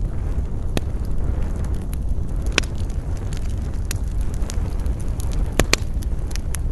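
Wood campfire crackling, with about five sharp pops, two of them close together near the end, over a steady low rumble of wind.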